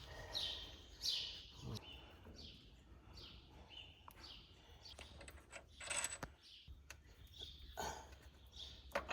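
A bird calling over and over, short falling chirps about once a second, with a few faint metallic clinks and knocks from work on the engine.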